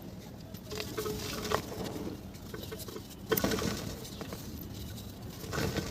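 Mud or cement being crumbled by hand, giving irregular crackling and pattering, with a sharper crack a little past halfway.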